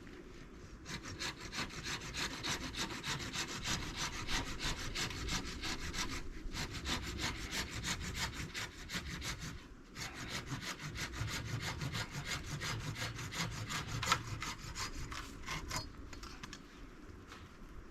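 Hand saw cutting through wood, likely firewood being cut to length, in quick back-and-forth strokes. The sawing comes in three runs, with short pauses about six and ten seconds in, and tails off near the end.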